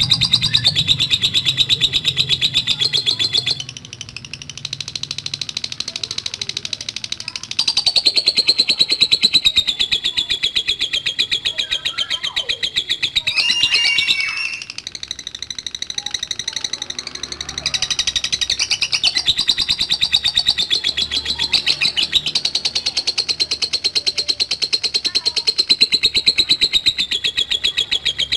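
Lovebird ngekek: a long, rapid, unbroken high-pitched chattering trill, dipping in loudness about four seconds in and again around fourteen seconds in before picking up again.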